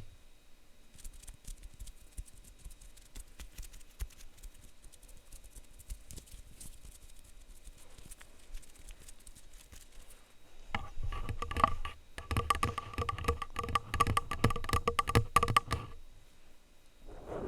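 Plastic utensils tapping and scratching on a microphone: light scattered taps at first, then, from about eleven seconds in, a louder, dense run of rapid clicks and rubbing with a ringing tone that stops shortly before the end.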